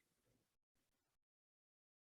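Near silence: a pause between spoken words, with only faint gated background hiss.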